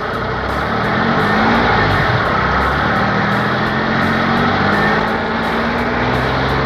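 Car engine sound effect running steadily, its pitch rising slowly a couple of times as if accelerating.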